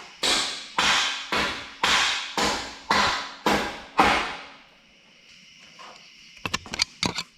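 Eight hammer blows on the exhaust pipe of a Volvo S60R, about two a second, each ringing briefly, striking the pipe to knock a stuck exhaust joint loose. A few quick, lighter clicks come near the end.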